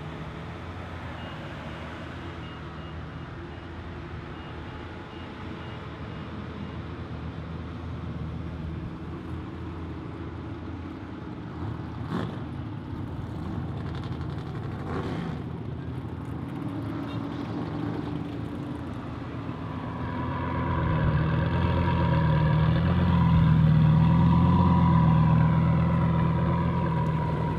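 Performance car engines running at a drag strip, a steady engine note that grows much louder about two-thirds of the way in, holds, then starts to ease near the end, as a car moves up close. A sharp click sounds about twelve seconds in.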